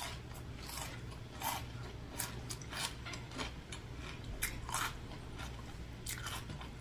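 Person chewing fast food close to the microphone, with a string of short, crisp crunches and wet clicks, over a steady low hum.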